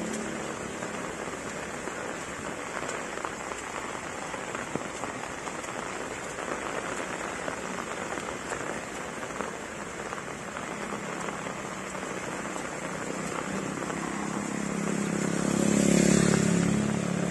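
Heavy rain falling steadily on a road and roadside plants. Near the end a vehicle passes on the wet road, its engine and tyre hiss rising and then fading.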